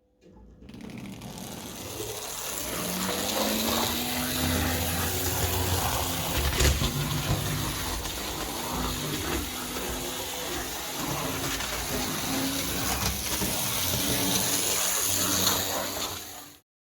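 O scale electric model locomotive running on track: a steady rolling rattle of wheels on rail under a low motor hum that wavers in pitch. It starts just after the opening and cuts off abruptly near the end.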